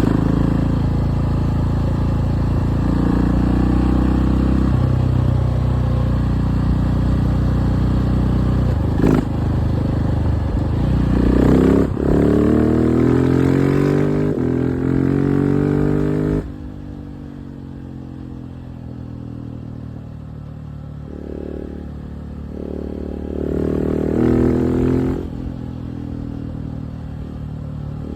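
KTM 690 SMC R's single-cylinder engine under way. It runs steadily at first, then revs up with a rising pitch before the throttle is shut suddenly about halfway through. After that it runs quieter, with two short bursts of throttle near the end.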